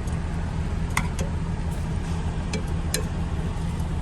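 Steady low rumble of an idling truck engine, with a few light clicks from cooking at the pot about one, two and a half and three seconds in.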